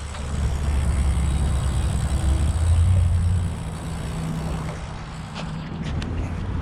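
Low rumble of road noise while cycling in strong gusty wind: wind buffeting the microphone mixed with passing motor traffic, swelling to its loudest about three seconds in and then easing.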